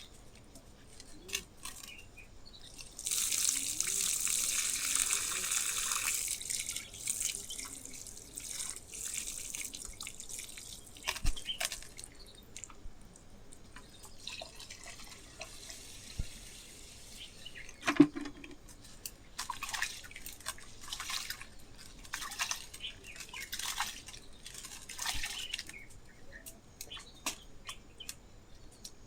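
Water pouring steadily for about three seconds, then splashing and dripping in short spells, with scattered knocks, the sharpest about eighteen seconds in.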